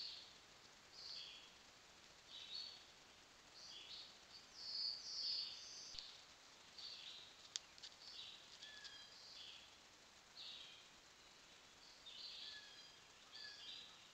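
A small bird singing: short, high two-note chirping phrases repeated about once every second or so, over a faint steady hiss. A single sharp click comes about halfway through.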